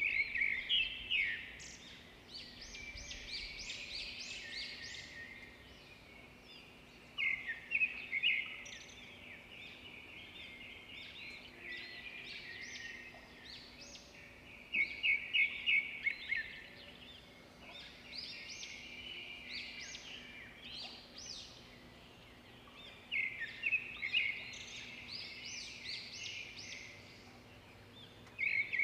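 Small bird chirping in short bursts of quick, high notes every few seconds, over a faint steady hum.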